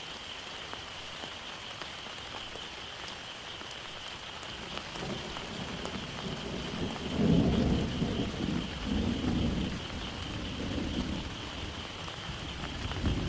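Steady heavy rain, with a peal of thunder building about a third of the way in and rolling on in low swells for several seconds.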